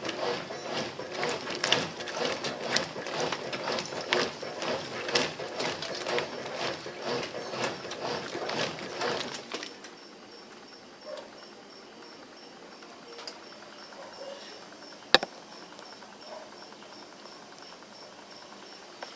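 Brastemp BWL07A top-loading washing machine agitating a soapy load of dish towels in rhythmic strokes. The agitation stops about halfway through as the soak programme pauses. A faint high-pitched steady chirping and one sharp click follow.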